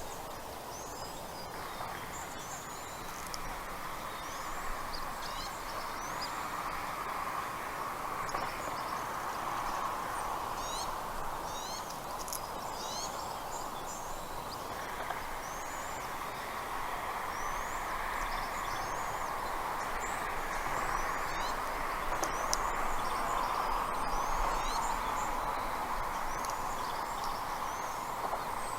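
Birds chirping: many short, high, quick rising chirps scattered throughout, over a steady rushing background noise.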